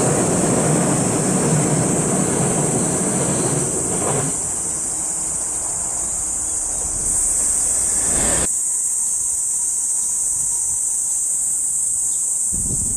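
A 185-series electric train running over a viaduct, its low rail rumble fading away about four seconds in. A steady high-pitched drone of cicadas continues throughout. About eight seconds in, the lower background cuts off abruptly.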